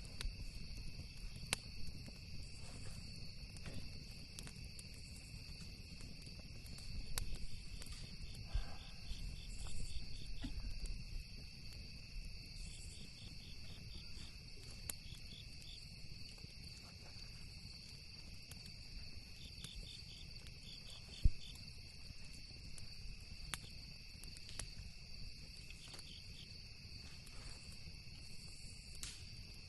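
Crickets chirping steadily in a continuous chorus, with short pulsed trills now and then. A campfire crackles and pops sharply at intervals, loudest with one snap about two-thirds of the way through, over a low rumble.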